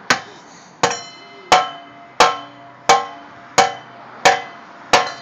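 Sledgehammer striking the car's metal exhaust in a steady rhythm, eight ringing blows about 0.7 s apart, beating it to clear a tow hitch.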